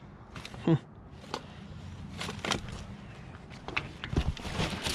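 Scattered clicks and rustles of small decorations and their packaging being handled, with a few low thumps about four seconds in.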